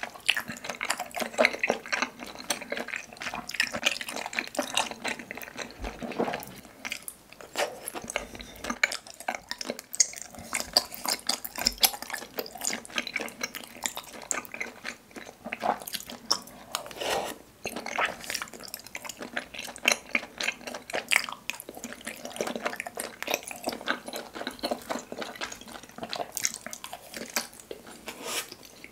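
Close-miked wet chewing of spicy tteokbokki: a dense, continuous run of sticky, smacking mouth clicks.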